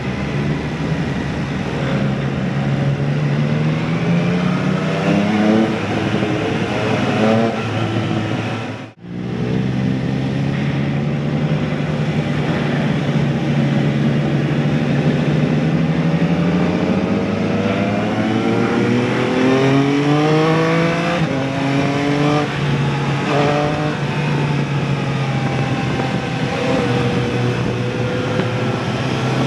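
Motorcycle engine and exhaust under way, the pitch climbing as it accelerates and dropping back at each gear change, several times over, with wind noise across the microphone. The sound cuts out briefly about nine seconds in.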